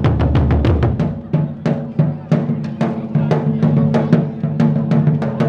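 Japanese taiko drums beaten in a fast, driving rhythm, about five or six sharp strikes a second, over a sustained low ringing tone. A deep boom dies away about a second in.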